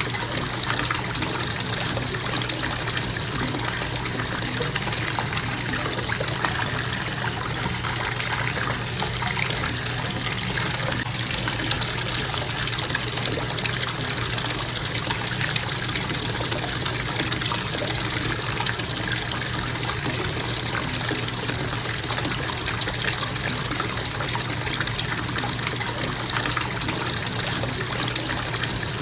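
Bathtub faucet running steadily, water splashing into the tub.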